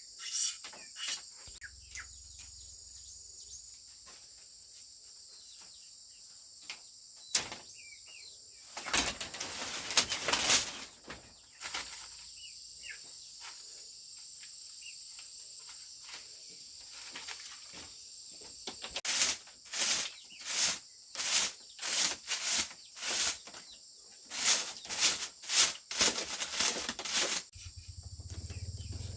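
Rhythmic rasping strokes of a hand tool working bamboo, about two a second, in a short run after about nine seconds and a longer run in the second half, over a steady chirring insect chorus.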